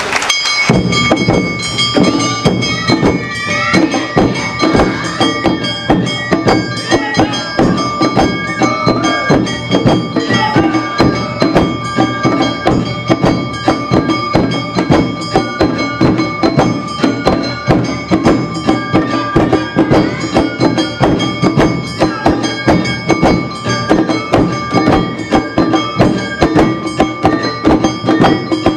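Awa Odori hayashi band playing: drums and metal gong struck in a quick, steady beat, with held high notes over them.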